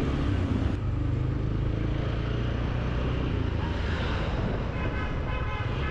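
Motorcycle engine running steadily while riding, over road and traffic noise.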